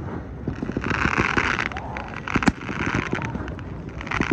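Fireworks display: rapid crackling and popping, with one sharp bang about two and a half seconds in and several spells of hissing.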